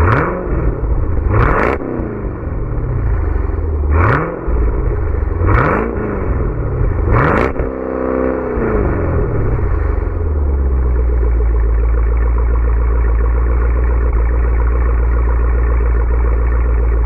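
Warm 6.2-litre V8 of a 2013 Chevrolet Camaro SS through a Borla ATAK exhaust, blipped five times in quick succession, each rev rising and dropping back, then settling to a steady, even idle for the last several seconds.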